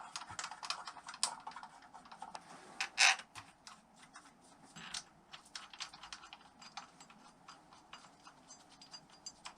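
Scattered small metallic clicks and taps of bolts and hand tools being handled on engine parts, with a louder clack about three seconds in.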